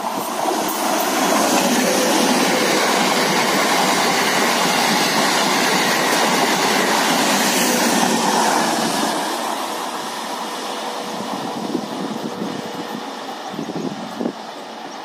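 MEMU electric multiple unit train passing close at speed: a loud rush of wheels on rail and passing coaches that builds about a second in, holds until about nine seconds, then falls away as the train recedes, with a couple of short knocks near the end.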